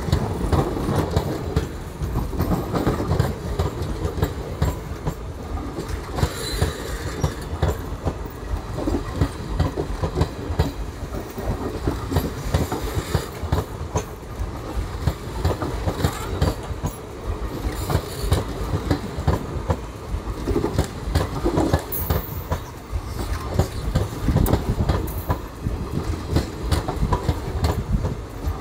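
ICF passenger coaches rolling past at speed. Their wheels clatter in a continuous run of clacks over a heavy, steady rumble.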